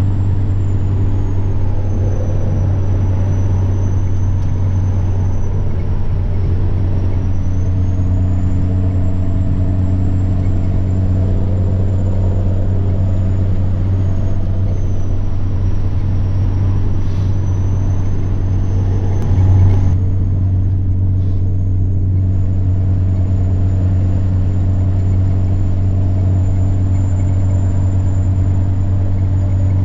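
Semi-truck diesel engine running steadily under way, with a deep steady drone and a thin high turbocharger whine that drifts slowly up and down in pitch. About two-thirds of the way through there is a brief bump in level, after which the higher hiss eases for a couple of seconds.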